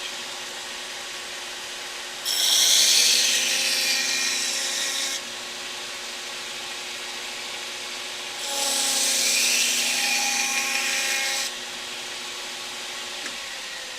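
Burr King belt grinder running with an inside-out cotton belt loaded with compound, a steady hum; twice a knife edge is pressed to the belt for about three seconds, a loud hissing rub each time, stropping off the feather (wire) edge left by grinding.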